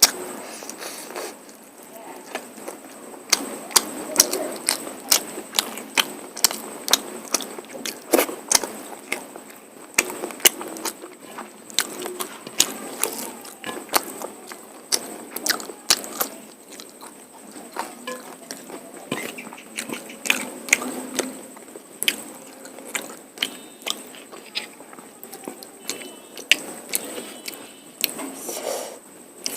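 Close-up eating sounds of mutton curry with rice: wet chewing and lip smacking, with many sharp mouth clicks at an irregular pace.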